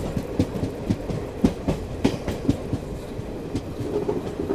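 Passenger train coach running at speed, its wheels clacking over the track in a run of sharp, unevenly spaced knocks over a steady rumble, heard from the open doorway.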